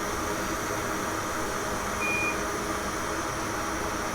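Steady blowing hiss of a hot air rework station's fan, with one short, high beep about two seconds in.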